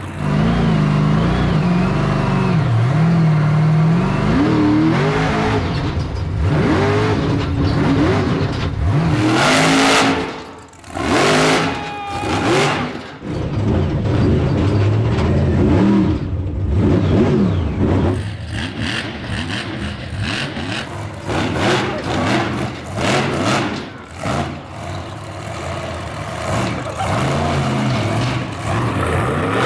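Monster truck's supercharged V8 revving up and down again and again as the truck is driven hard, with two loud rushing bursts about ten and twelve seconds in.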